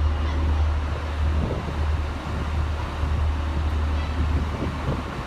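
Diesel train engines idling in a station with a steady low hum.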